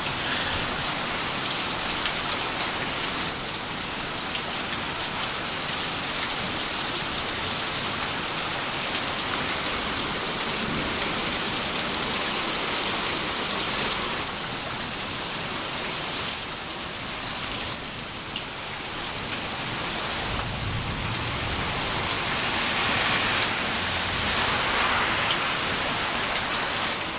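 Heavy rain falling steadily in a thunderstorm, with a low rumble of thunder about twenty seconds in.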